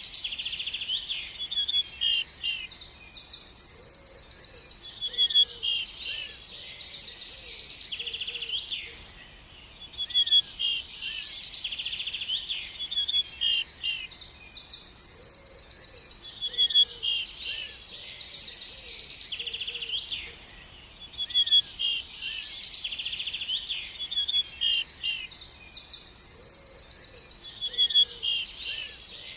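A songbird singing a rapid, continuous run of chirps and trills. The same sequence of phrases repeats about every 11 seconds, broken by short pauses.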